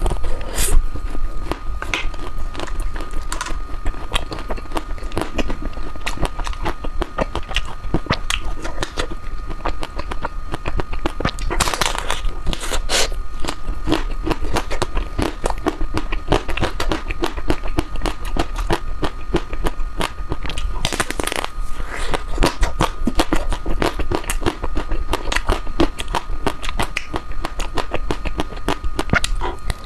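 Close-up mouth sounds of someone eating dark chocolate ice cream: a dense, irregular run of wet clicks and smacks, with a few longer, noisier wet sounds about twelve and twenty-one seconds in. A faint steady high whine runs underneath.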